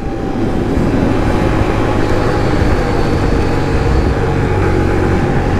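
Kawasaki KLX140's small air-cooled four-stroke single running steadily while the bike is ridden along the road.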